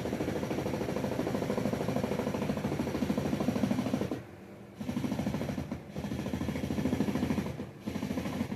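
Power driver running screws in with a rapid rattling hammer, in four runs: one of about four seconds, then three shorter ones of about a second each with brief pauses between.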